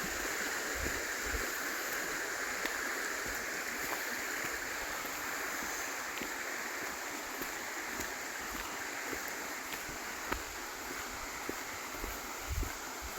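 River water flowing and rushing over rocks, a steady even rush, with now and then a soft low thump.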